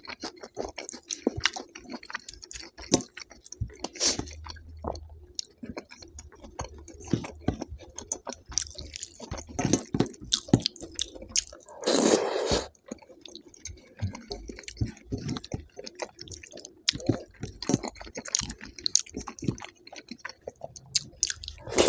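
Close-miked chewing and mouth sounds of a person eating, with many small smacks and clicks. One louder, noisier sound lasting under a second comes a little past halfway.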